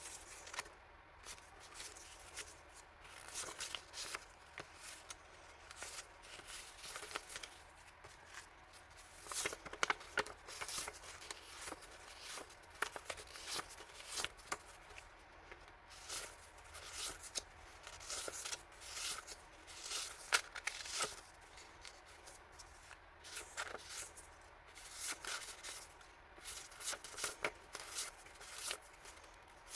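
Paper and plastic packaging rustling and crinkling as stationery and collage paper items are unwrapped and handled by hand, with irregular small clicks and scrapes.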